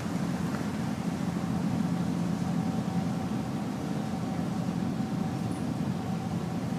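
A boat's engine and machinery running steadily: a constant low hum with a faint steady whine above it.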